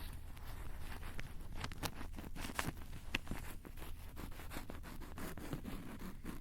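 Close-miked ASMR handling sounds: rapid, irregular taps, clicks and scratchy rustles on a Tascam recorder's microphones, over a steady low hum.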